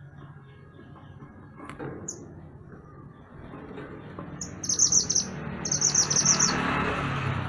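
Mantenan gunung songbird singing: a short high note about two seconds in, then two quick high trills of rapid chips from about the middle on, over a steady background rush.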